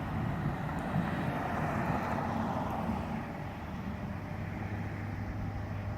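A vehicle running steadily: a low engine hum under rushing noise that swells about one to three seconds in and then settles.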